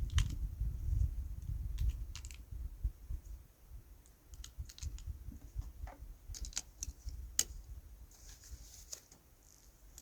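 Scattered light clicks and rustling handling noise, with a low rumble in the first few seconds; no gunshot.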